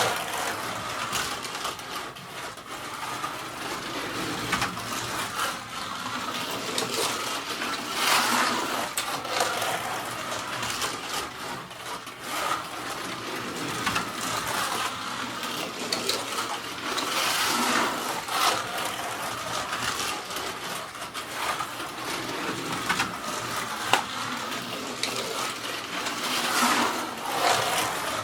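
A slot car's small electric motor whining as it laps the track, the sound swelling each time the car passes close, about every four to five seconds, with a few sharp clicks.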